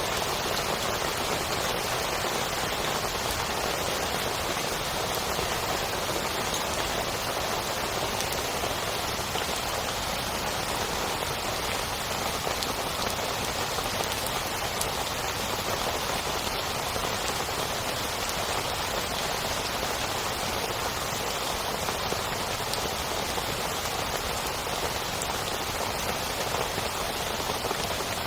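Heavy rain falling steadily on a tent, an even, unbroken patter.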